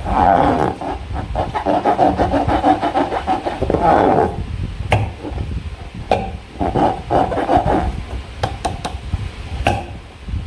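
Slime being squeezed and worked by hand, with sticky squelching and many small clicks and pops, plus a few sharper taps.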